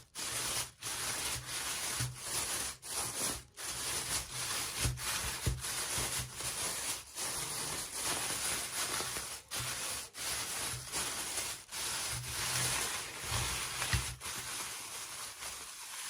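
Hands rubbing and scraping at toy packaging in repeated strokes, a scratchy noise broken by short pauses.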